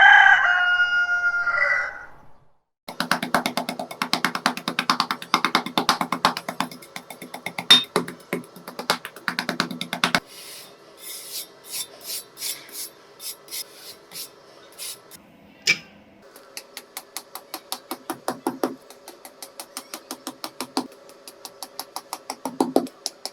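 A rooster crows once, loud, for about two seconds at the start. After a short pause, background music of quickly repeated plucked guitar notes plays.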